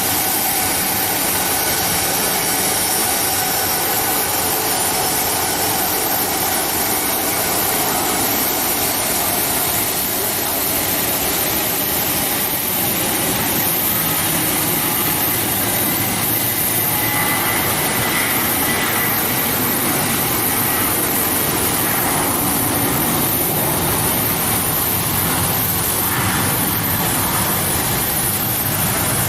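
Boeing 737-800's CFM56 jet engines running at taxi thrust: a steady rushing noise with a thin, steady high whine over it.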